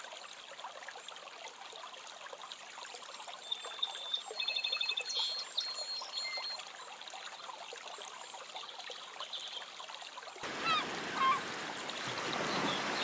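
Water trickling and lapping, with a few short, high chirps about four to six seconds in. About ten seconds in, the sound switches abruptly to a louder rush of water.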